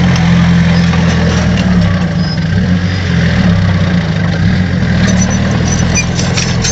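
Heavy earthmoving machine's diesel engine running steadily, its pitch wavering slightly as the load changes, with a series of sharp clicks and cracks near the end.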